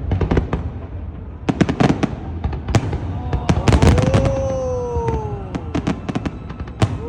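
Aerial fireworks display: many sharp shell bursts and crackles in quick succession, densest around the middle. About three seconds in, a long pitched tone slides slowly downward for a couple of seconds over the bangs.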